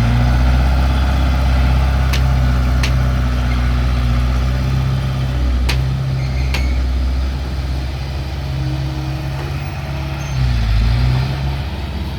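Diesel engine of earthmoving machinery running steadily with a low hum, with four short sharp clicks about two, three, five and a half and six and a half seconds in. The engine note briefly dips and swells near the end.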